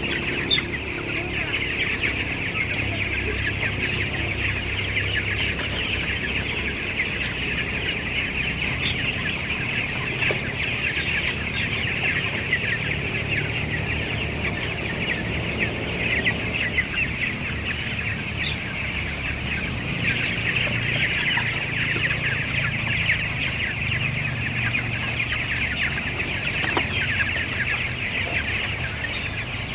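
A flock of chickens clucking and peeping, a dense, steady chatter of many overlapping calls.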